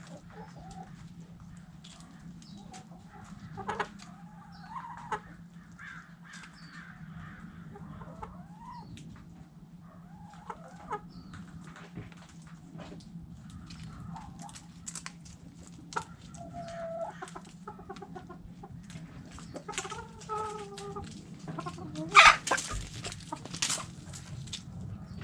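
Backyard hens clucking in short, scattered calls, over many small clicks and taps. There is a steady low hum underneath, and a loud sharp noise about 22 seconds in.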